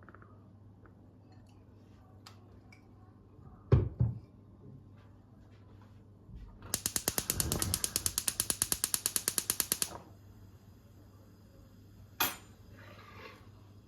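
Two knocks, then a mechanism clicking rapidly and evenly like a ratchet, about ten clicks a second for about three seconds, followed by one sharp click.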